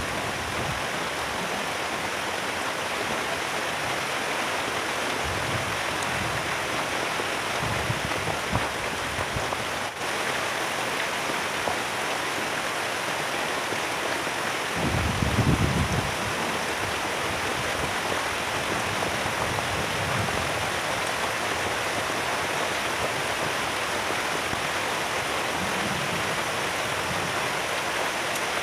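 Heavy rain falling steadily, a constant hiss, with a few brief low rumbles, the loudest about halfway through.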